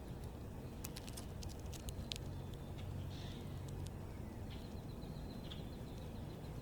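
Small backyard birds giving short high chirps, with a brief rapid trill past the middle, among scattered sharp ticks and taps. A steady low rumble runs underneath.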